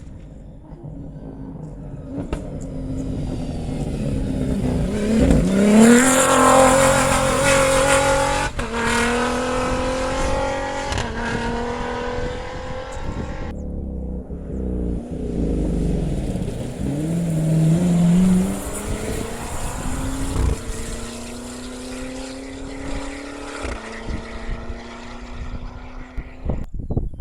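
Rally-raid car engines at race pace: one car revs up through the gears and passes close, loudest about six seconds in. After an abrupt cut about halfway through, another car accelerates, shifting up, then runs on at fairly steady revs.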